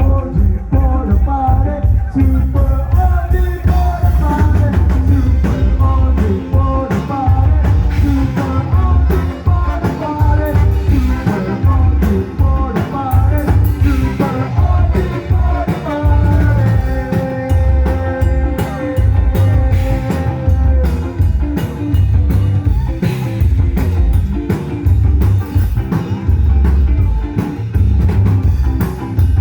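A rock band playing a song with a singer, over a heavy, pulsing bass and drum beat.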